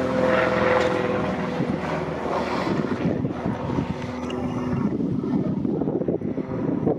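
A steady engine drone that fades out about five seconds in, with wind buffeting the microphone.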